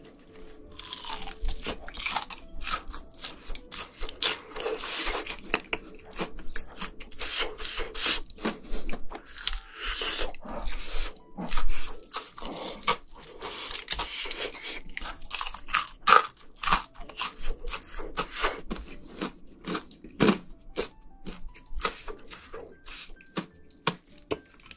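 Crisp fried chicken being bitten and chewed close to the microphones: a dense run of irregular crunches from the breaded coating, with chewing between them. The loudest crunch comes about twelve seconds in.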